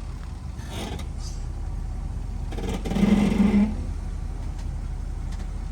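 Car engine running at idle, with a short burst of revving about three seconds in during an attempt to tow a bogged car out.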